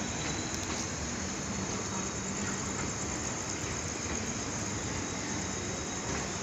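Steady mechanical rumble and hiss of a train standing at the platform, with a low hum running through it.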